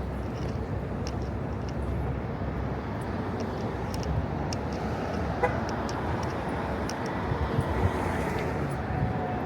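City street traffic: a steady rumble of passing cars, with scattered short clicks and knocks.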